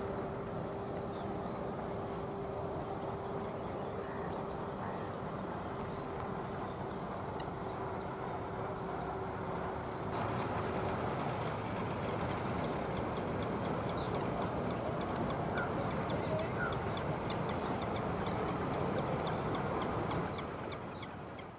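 Outdoor ambience: a steady rushing noise with a low hum through the first half, and from about ten seconds in, many quick, faint bird chirps; it fades out at the end.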